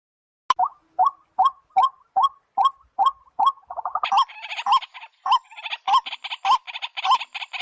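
White-breasted waterhen calling: a short hollow note repeated about two and a half times a second, starting about half a second in. From about four seconds a harsher, raspy croaking chatter joins over the repeated notes.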